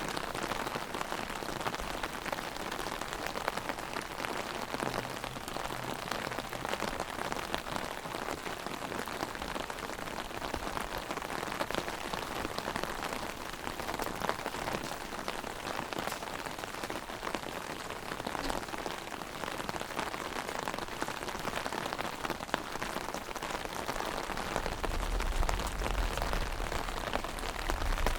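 Heavy rain pattering on an umbrella overhead, a steady dense spray of drops. A low rumble joins in near the end.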